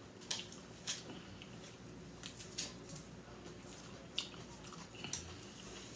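Faint chewing of a mouthful of lettuce salad: scattered short crunches and wet mouth clicks, about half a dozen, spread irregularly.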